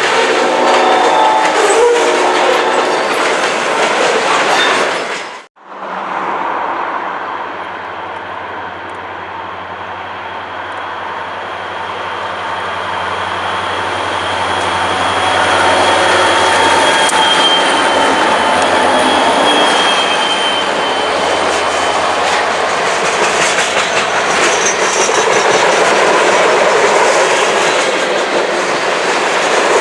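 Train passing with wheels clattering over the rails and a horn sounding in the first few seconds. The sound cuts off abruptly about five seconds in, then a train is heard again with a steady low engine hum under the rumble of the wheels, growing louder towards the end, with a thin high wheel squeal partway through.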